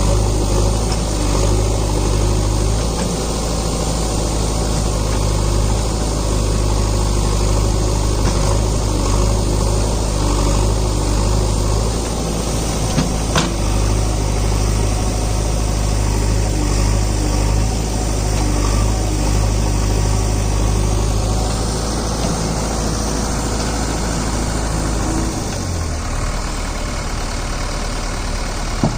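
JCB 3DX backhoe loader's diesel engine running steadily as it works, with a single sharp knock about halfway through. Near the end the engine note drops lower and a little quieter.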